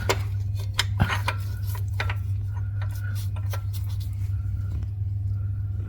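Light metallic clinks and taps as an engine bearing cap and small metal parts are handled, scattered irregularly over a steady low hum.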